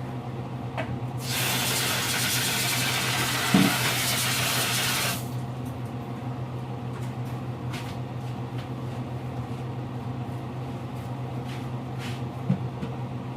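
Cooked pasta and its hot water poured into a strainer in the sink: a rush of splashing water for about four seconds, starting about a second in, with a light knock partway through. A steady low hum runs underneath.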